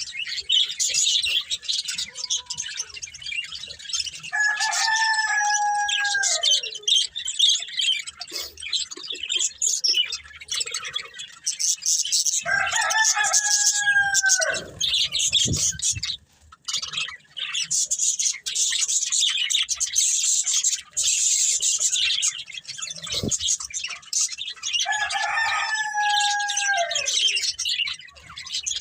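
Budgerigars chattering and warbling continuously in a high, busy stream of chirps. Three times a louder, lower, drawn-out bird call cuts through, each about two and a half seconds long and dropping in pitch at the end.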